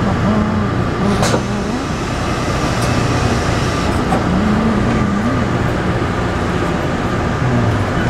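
Cabin noise of a Taipei Metro C301-type train with refitted propulsion inverters: a steady rumble with faint steady tones running through it.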